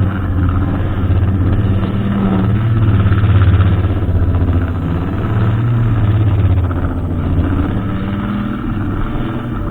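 Brushcutter engine running steadily, its note wavering up and down slightly and swelling a little around three and six seconds in.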